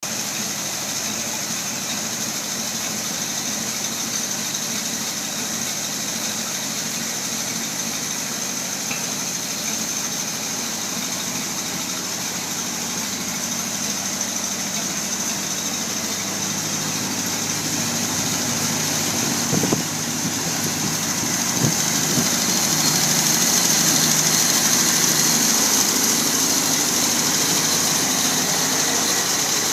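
Ford Model AA fire truck's four-cylinder engine idling steadily, just after its first start in many years. It grows somewhat louder about two-thirds of the way through, with two sharp knocks around then.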